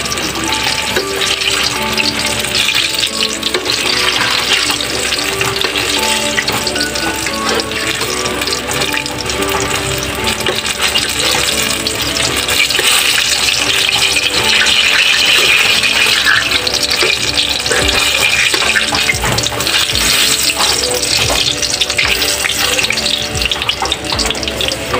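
Eggplants sizzling steadily as they fry in hot oil, with background music underneath.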